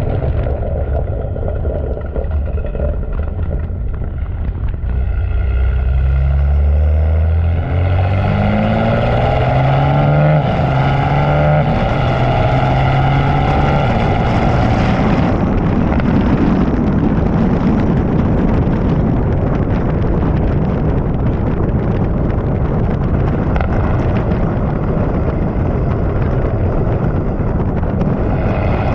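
BMW M3 Competition's twin-turbo inline-six, with catless downpipes and a sport axle-back exhaust, accelerating hard: the engine note rises in pitch in steps through several upshifts, then about halfway through it backs off and the rest is a steady rush of wind and road noise.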